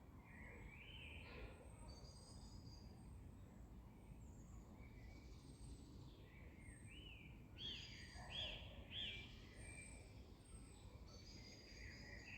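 Faint birdsong from several birds: thin high chirps repeating throughout, and about two thirds of the way through a run of three quick arched whistled notes, over a low background hiss.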